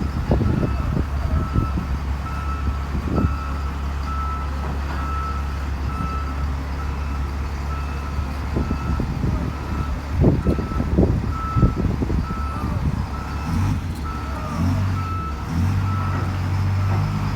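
G9138F motor grader's diesel engine running under load while it reverses, its reversing alarm beeping about once a second. Heavy knocks and clanks come in two clusters, near the start and about two thirds of the way in, and the engine note changes near the end.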